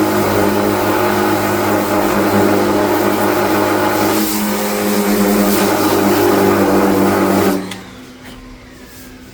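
Power sander running steadily against a car's metal fender, cutting back filler and old paint layers; it shuts off about seven and a half seconds in.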